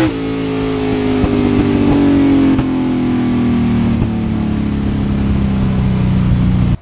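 Drag racing car's engine heard from inside the cockpit, coming off full throttle as the sound begins: it drops sharply in loudness and then winds down, its pitch falling steadily as the car coasts after the pass. A few faint clicks sound along the way, and it ends abruptly near the end.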